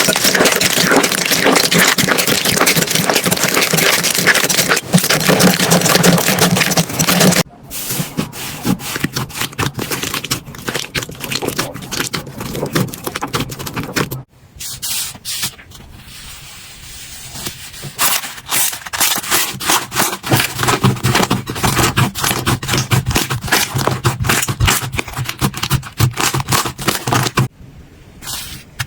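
Slime being squeezed, pressed and worked by hand, with dense crackling and popping. The sound cuts off abruptly about seven seconds in and again about fourteen seconds in; after that come sparser clicks and pops, with a quieter stretch for a few seconds.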